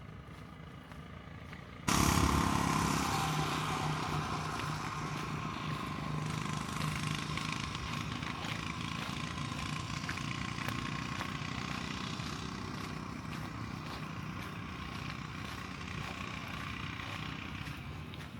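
A motor engine running, starting abruptly about two seconds in and then fading slowly.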